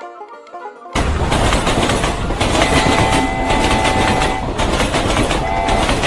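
Cartoon train sound effect: a loud steady rumble of a running train starts about a second in, with a held whistle tone sounding twice over it.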